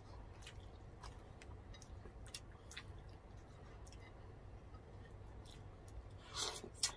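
Faint eating sounds from a person eating fish and rice by hand: chewing and lip smacks heard as scattered small clicks over a low hum, with one brief louder mouth sound about six and a half seconds in.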